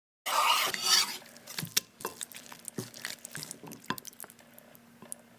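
A knife scraping and slicing through cooked beef steak on a wooden cutting board, loudest in a brief rush at the start, followed by a few scattered knocks and clinks of the knife and a plate on the board.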